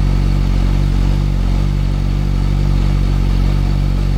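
CFMOTO 500SR's warmed-up inline-four engine idling steadily.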